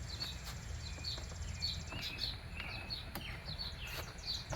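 Outdoor ambience: a bird chirping repeatedly in short calls over a steady low background rumble, with a fast high buzzy trill for the first couple of seconds and a few light clicks.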